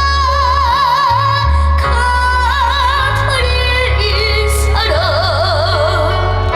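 Live trot song over an amplified sound system: a high singing voice holds long notes with wide vibrato over backing music with a steady heavy bass.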